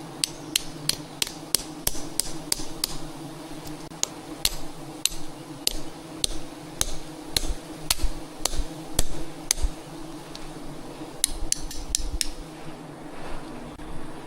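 Repeated sharp strikes of a hand tool on a hard surface, about three a second and then slowing, stopping about ten seconds in and coming back as a short quick run near the end, over a steady low hum.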